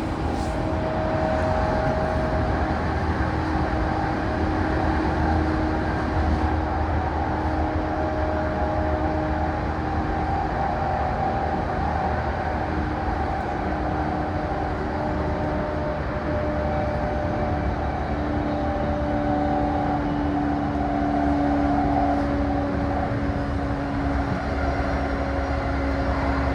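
E235-1000 series electric multiple unit running at speed, heard from the motor car MoHa E234-1003: steady wheel-on-rail rumble and running noise, with the traction motor's hum giving faint steady tones that slowly shift in pitch.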